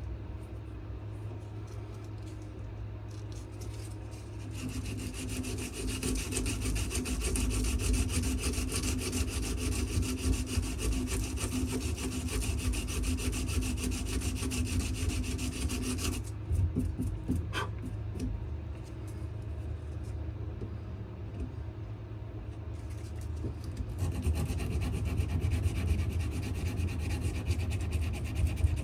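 Sandpaper scrubbing on a wooden knife handle of wenge and maple. It comes in two spells: a long stretch of sanding, a quieter pause with a single knock, then sanding again near the end.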